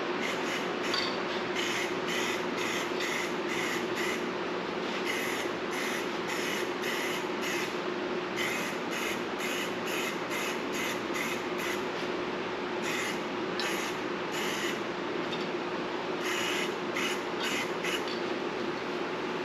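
Aerosol can of HyperDip peelable coating spraying a light mist coat in many short hissing bursts, with a few brief pauses. A steady hum runs underneath.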